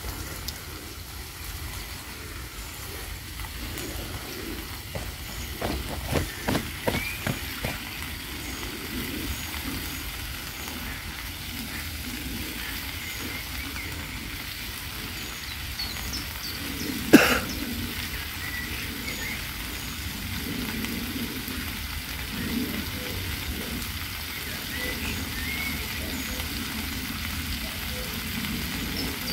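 Food sizzling steadily in a frying pan over a wood fire, with a quick run of sharp clicks about six seconds in and one loud knock a little past halfway.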